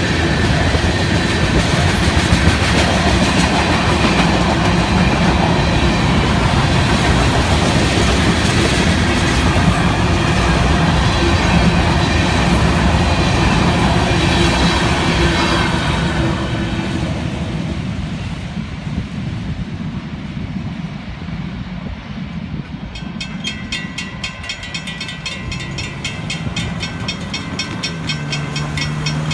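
A long Florida East Coast freight train rolling past, its cars' wheels clattering on the rails. The noise dies away about two-thirds of the way through as the end of the train goes by.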